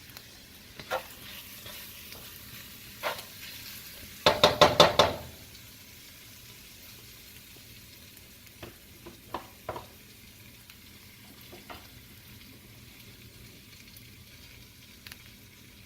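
Beaten eggs frying in olive oil in a pan with a low, steady sizzle. A utensil knocks against the pan now and then, with a quick run of about six strikes around four to five seconds in, the loudest part, and lighter clicks later on.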